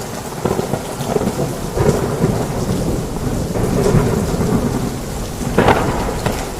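Heavy rain falling steadily, with thunder rumbling in repeated swells and a few sharper cracks.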